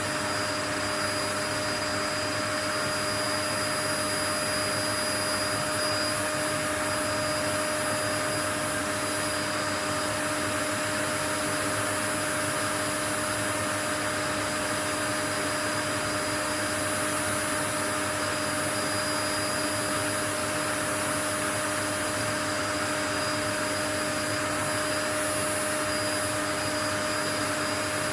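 Steady white noise, an even rushing hiss with a few faint steady tones in it, unchanging throughout.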